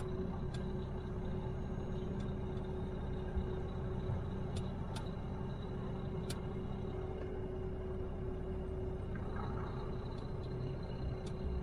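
Truck engine running steadily, heard from inside the cab as a low drone with a steady hum, with a few scattered faint clicks.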